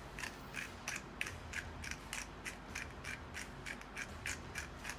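A whisk or fork beating a yogurt-and-spice marinade in a bowl: quick, even strokes scraping and clicking against the bowl, about four a second.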